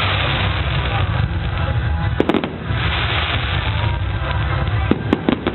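Fireworks going off: a continuous dense crackle, with sharp bangs about two seconds in and several more near the end.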